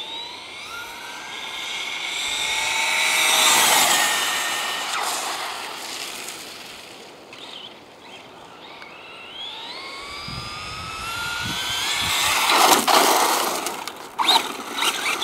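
Traxxas Slash 4x4 RC short-course truck's brushless electric motor whining and rising in pitch under hard acceleration. It gets loud as the truck passes close about three to four seconds in, fades as it drives off, then builds again in a second rising run that peaks near the end. A few short clicks follow the second run.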